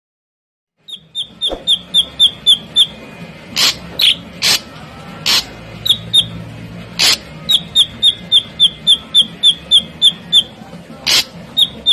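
Ashy drongo calling, starting about a second in: runs of short, clear, high notes at about four a second, broken now and then by loud harsh notes.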